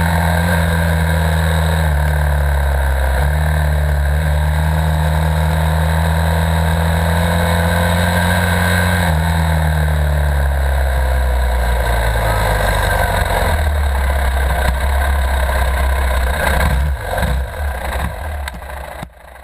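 Dirt bike engine running steadily, its pitch stepping down slightly a few times, with wind noise over it. Near the end the engine sound drops away into a few irregular clattering strokes and fades out.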